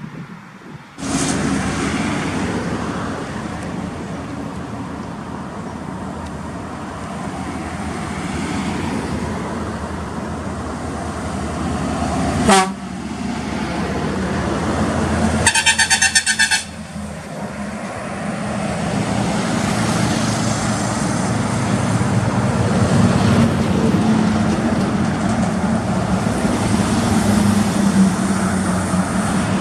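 Heavy diesel trucks running past with steady engine and road noise, and a truck horn blowing for about a second about halfway through.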